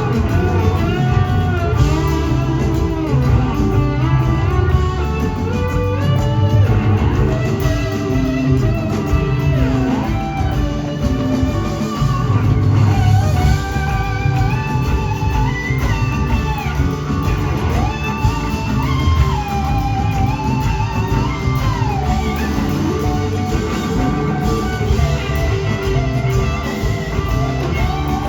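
A live electric blues-rock band jamming. Lead electric guitar solos with notes that bend and glide, over a full band with bass.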